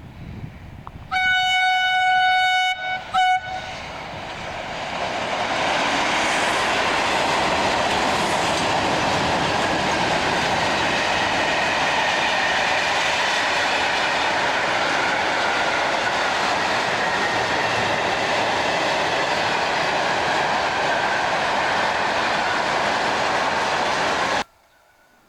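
Train horn sounding one long blast and a short second one, followed by a passing train's rumble and wheel clatter that builds up and runs steadily until it cuts off suddenly near the end.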